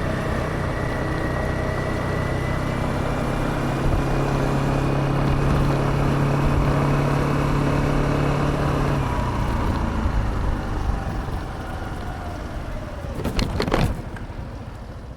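Suzuki Address 125 scooter's single-cylinder engine running at a steady speed, then easing off and slowing from about nine seconds in. A few sharp knocks come near the end as the sound drops away.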